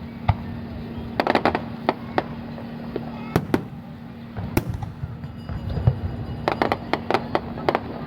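Fireworks bursting: sharp bangs come singly and in quick clusters, with a dense run of rapid bangs near the end.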